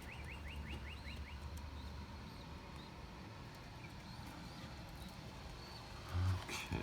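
Small birds chirping outdoors: a quick run of short, high, rising chirps, about five a second, for the first second or so, then scattered faint chirps. A short low thump comes near the end.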